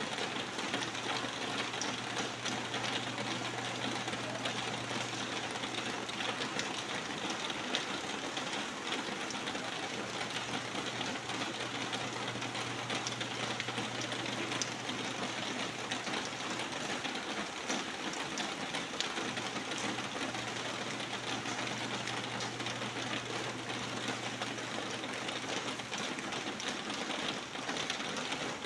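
Steady rain, a dense, even hiss of countless small drop impacts, with a steady low hum underneath.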